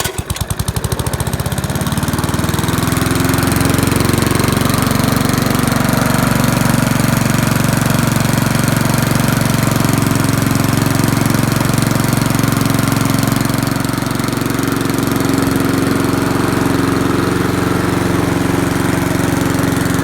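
1994 Murray push mower's Briggs & Stratton Classic 3.75 HP single-cylinder engine, just started, picking up speed over the first couple of seconds and then running steadily at speed.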